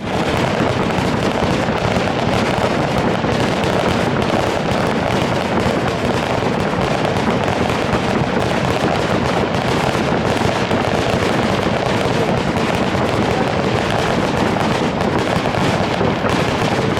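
Fireworks display in a dense, continuous barrage: many overlapping bangs and crackles with no pause between them.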